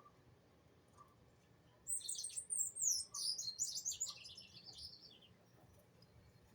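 A small songbird singing one fast, high twittering phrase of quick falling notes, lasting about three seconds and starting about two seconds in.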